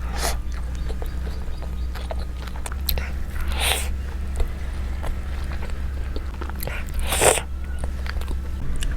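Close-miked eating: biting and chewing with many small clicks, and three short noisy rushes, one right at the start, one a little before four seconds and one a little past seven seconds. A steady low hum runs underneath.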